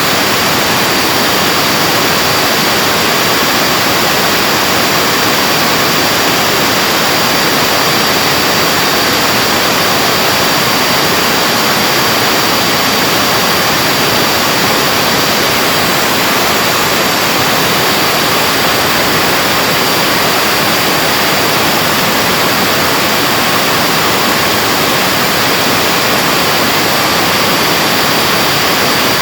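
Vacuum cleaner's universal motor running steadily at full speed, a loud rush of air with a constant high whine. It is running while its commutator, crusted from overheated and damaged carbon brushes, is polished with a pumice stone to reduce heavy brush sparking.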